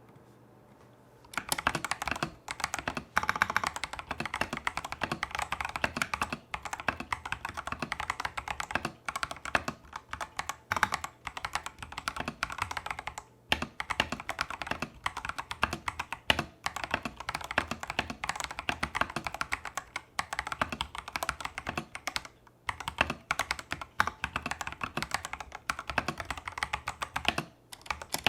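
Fast, continuous typing on a Tester68 mechanical keyboard with stock, factory-lubed Holy Panda–clone tactile switches and XDA-profile keycaps. It starts about a second in, with a few short pauses.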